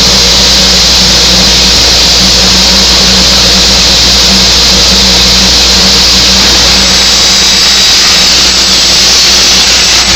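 Aluminium circular saw machine with an 18-inch blade running steadily, a loud, even hiss with a low hum under it.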